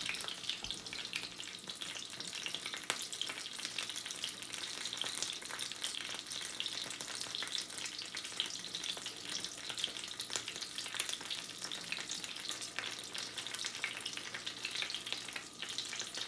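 Birria taco sizzling and crackling as it fries in hot fat in a nonstick skillet: a steady, dense crackle of small pops, the tortilla crisping on its second side.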